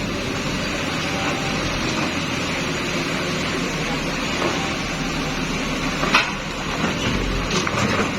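Komatsu excavator running steadily while it works, with a sharp knock about six seconds in.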